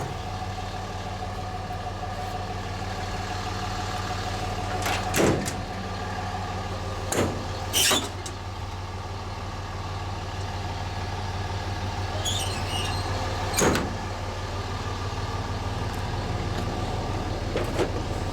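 2005 Dodge Ram 3500's 5.9 L Cummins inline-six turbo diesel idling steadily. Four sharp clunks from the utility bed's storage compartment doors and latches come about five, seven, eight and fourteen seconds in.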